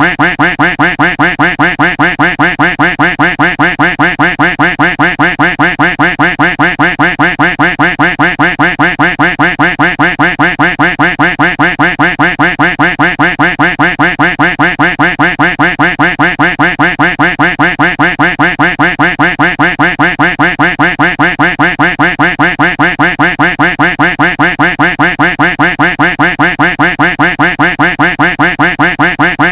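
Duck quack sound effect looped without a break: the same quack repeated in a fast, perfectly even rhythm.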